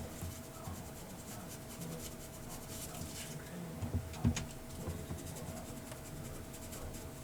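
Ink pad rubbed and dabbed along the edges of a paper card, making soft scratchy strokes, with a couple of light taps about four seconds in. A faint steady hum runs underneath.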